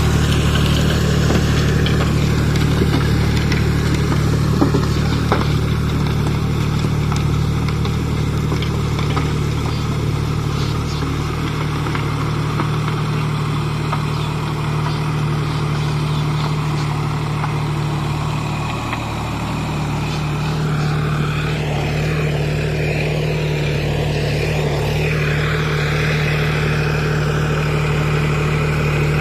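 Tractor engine running steadily as it works a rice field, its note dipping and shifting briefly about two-thirds of the way through.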